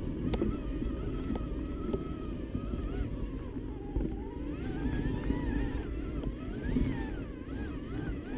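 Electric mountain bike riding: the Specialized Turbo Kenevo SL's mid-drive motor whines, its pitch wavering up and down from about halfway through, over a steady rumble of tyres and wind, with a few knocks from the bike.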